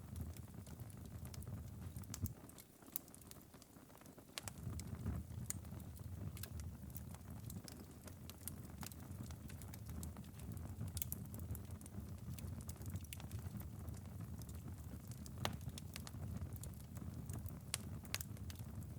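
Wood fireplace ember bed, late in a long burn, crackling faintly: scattered sharp ticks and pops over a low steady rumble that drops away briefly about two seconds in.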